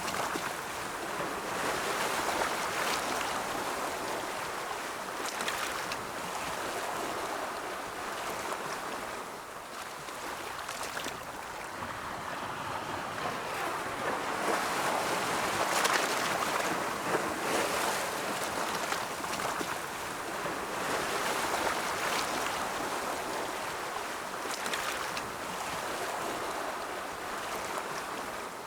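Ocean surf: waves washing in and drawing back in a steady rush of noise that swells and ebbs every few seconds, with fizzing spray on the breaks.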